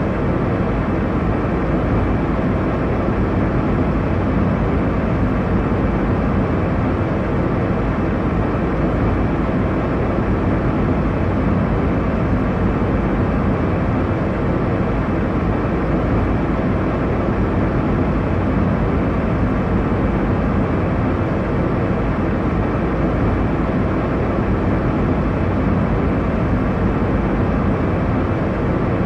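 Airliner cabin noise in flight: a steady, unchanging roar of engine and airflow, deepest in the low end.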